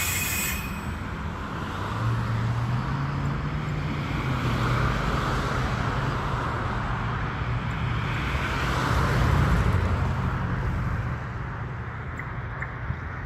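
Baltimore Metro Subway train running slowly: a steady rumble with a low motor hum, swelling about nine seconds in and easing off near the end.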